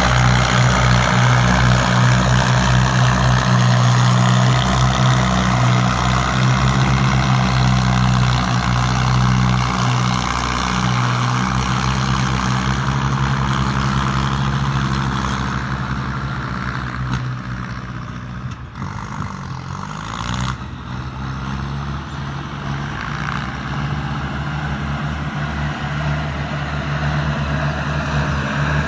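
Ford farm tractor's diesel engine running steadily under load while pushing and grading soil. It grows quieter for a few seconds past the middle, then rises again toward the end.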